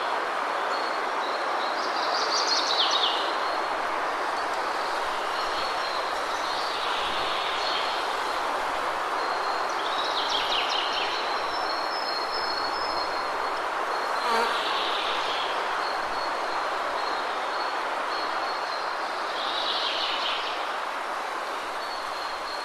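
Steady rushing water of a waterfall, with birds chirping in short high bursts every few seconds over a thin, high, steady trill.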